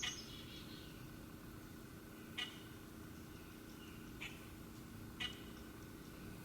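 Four short, sharp high chip calls from a small wild animal, spaced a second or two apart, over a steady low hum.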